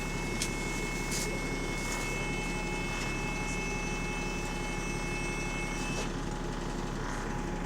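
Bus engine running steadily, heard from inside the bus, with the exhaust leak blowing. A faint high steady whine stops about six seconds in, and a few light clicks and rattles come through.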